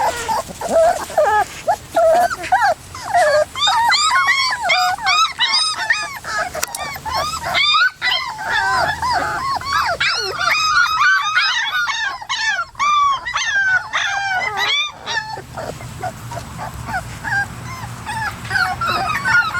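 A litter of young puppies, about three and a half weeks old, whining and yelping, many high cries overlapping one another.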